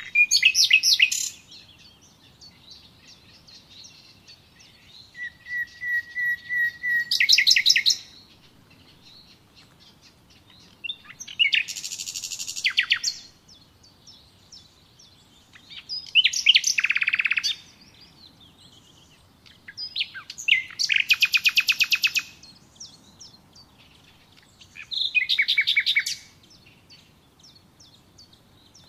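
A songbird singing: about six short phrases of fast, high trills and whistles, one every four to five seconds, with quiet pauses between them.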